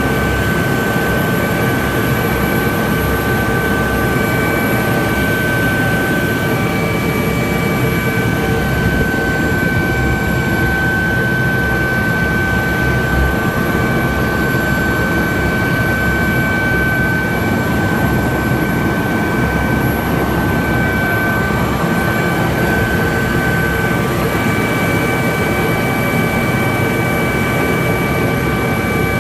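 Helicopter running steadily: a constant, loud engine and rotor din with steady high whining tones from the turbine.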